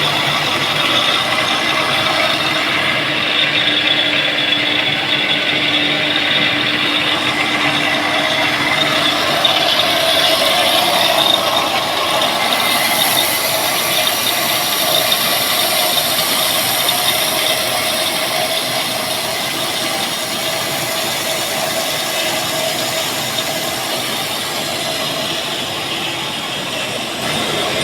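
Steel pipe mill machinery running with a steady, dense mechanical clatter.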